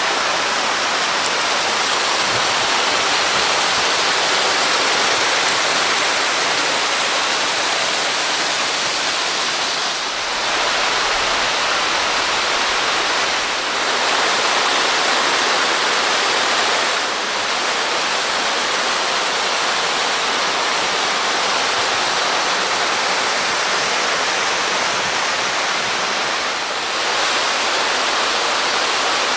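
Small waterfall, about a 6 m drop, with water pouring and splashing in a loud, steady rush.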